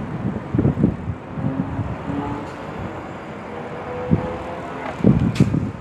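Outdoor engine roar from airliners and road traffic, steady throughout, with wind gusting on the microphone near the start and again near the end.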